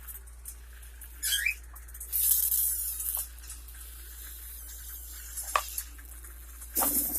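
Rustling and crinkling in bursts, loudest about two seconds in and again near the end, with a sharp click partway through. It is typical of cage paper being handled during cage cleaning. A pet bird gives a short rising chirp about a second in.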